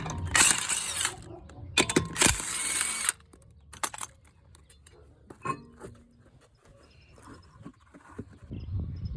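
Metal tools and brake parts clinking and being handled during a car's front brake pad job, with two short bursts of noise in the first three seconds, then scattered clicks.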